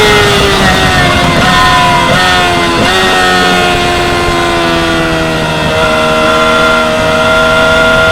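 2016 Yamaha R6's 600 cc inline-four engine on track. Its pitch drops as the bike slows, jumping up four times in quick succession within the first three seconds like downshift blips. It then runs lower through the corner and climbs gently again on the throttle about two-thirds of the way in.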